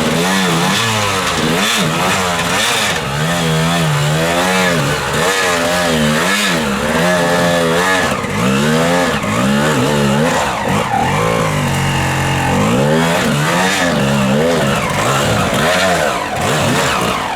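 Enduro motorcycle engine revved hard and let off over and over, the pitch rising and falling about once a second.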